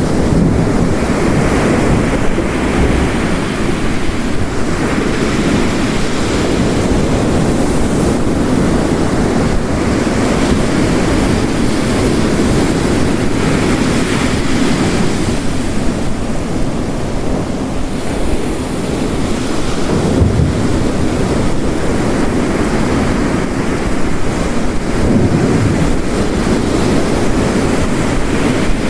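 Steady ambience of ocean waves crashing on a shore mixed with heavy rain: a dense, continuous wash that swells and eases every few seconds.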